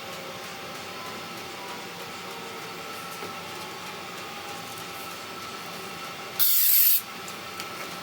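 A single half-second hiss of an aerosol CA glue activator sprayed onto the glued joint, about six and a half seconds in, over a steady background hum.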